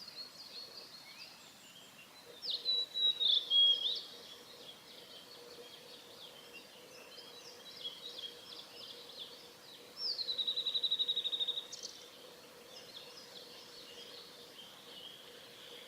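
Male blue-and-white flycatcher singing: two loud song phrases, one about two and a half seconds in and one about ten seconds in, the second gliding down into a fast, even trill. Fainter chirps of other birds carry on throughout.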